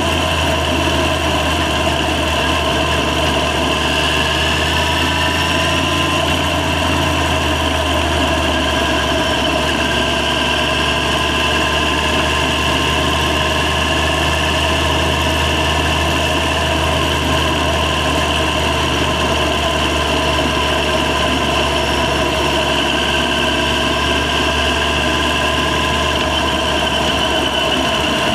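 Yamaha FZ6 motorcycle's inline-four engine running at a steady, even note, heard from the rider's position.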